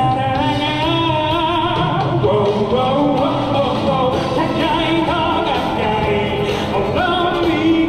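Live performance of a song: a singer holds long, wavering notes over the accompaniment.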